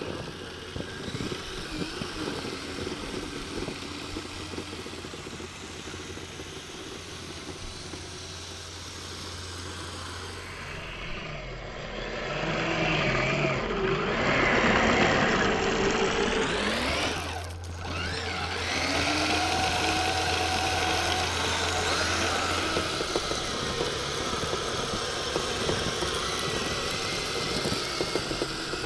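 A vehicle's motor running steadily, growing louder with a rising pitch a little before halfway through and easing back a few seconds later.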